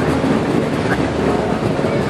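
Steady mechanical rumble of car engines running on a race-track starting grid.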